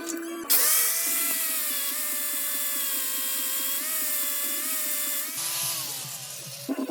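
Handheld power tool running at high speed, a steady whine with a hiss over it, then its motor spinning down with a falling pitch near the end.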